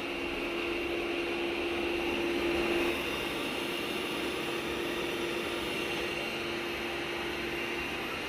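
Lydsto R1 robot vacuum running steadily, a fan drone with a constant high whine; a lower hum in it weakens about three seconds in.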